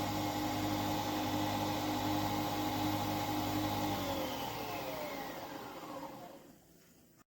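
Nespresso Vertuo Next's capsule-spinning motor whirring at a steady pitch, then winding down, its pitch falling until it stops about six and a half seconds in.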